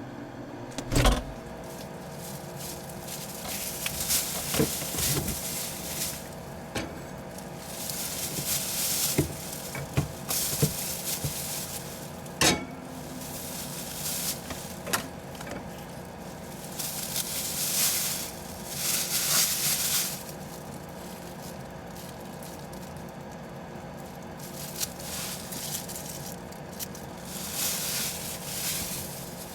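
Rustling and clinking handling noises, with scattered sharp knocks, over a steady electrical hum.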